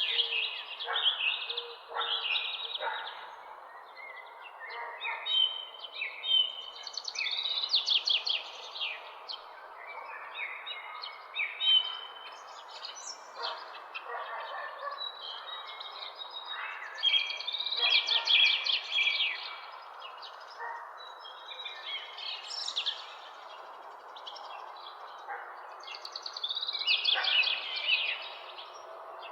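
Several songbirds chirping and singing in short, overlapping phrases, repeating every second or two over a steady background hush of a morning dawn chorus.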